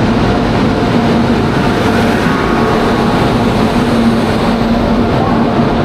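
Express passenger train rolling into a station platform: a steady, loud rumble of the wheels and coaches with a low hum that comes and goes.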